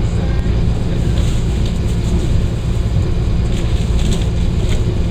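Steady running noise heard inside a Class 172 Turbostar diesel multiple unit under way: a low drone from its underfloor diesel engine mixed with wheel-on-rail noise.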